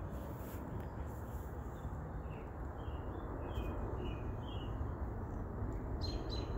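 Wild birds chirping: a run of short chirps from about two seconds in, and another brief call near the end, over a steady low background rush of outdoor noise.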